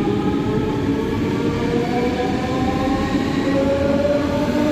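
Electric train's traction motors whining, several tones rising slowly together in pitch as it accelerates, over steady low running noise.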